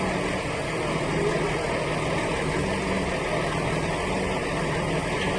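An engine running steadily at idle, with a continuous low hum.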